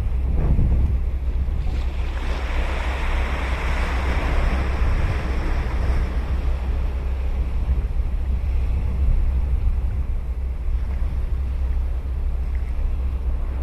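Ocean surf on a sandy beach: a wave breaks about two seconds in, and its hissing wash fades over the next few seconds. Under it runs a steady low rumble of wind on the microphone.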